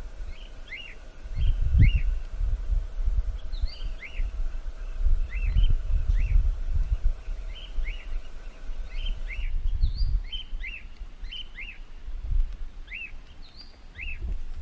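A flock of wild cockatiels giving their rising-and-falling whistled contact calls, about one or two a second, over a gusty low rumble.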